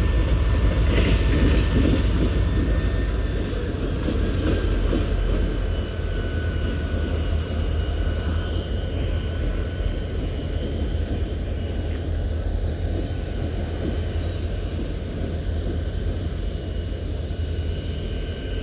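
Train moving through a railyard: a heavy, continuous low rumble with thin, steady high-pitched tones over it, easing slightly in loudness after the first few seconds.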